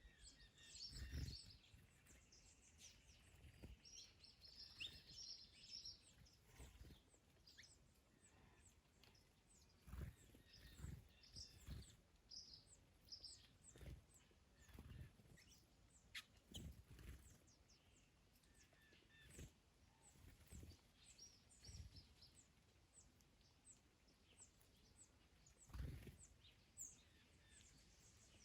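Faint birdsong from several small birds, short chirps and trills throughout, with low gusts of wind on the microphone now and then, the strongest near the end.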